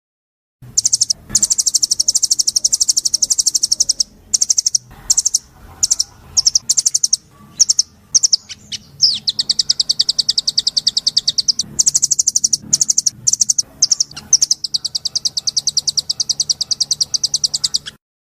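A songbird singing rapid, high trills in long runs, each run a fast even stream of notes, broken by short pauses and a few brief separate calls.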